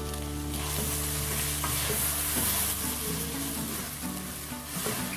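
Shredded chicken and a blended corn-and-milk mixture sizzling in a pan as they are stirred, over soft background music with sustained low notes.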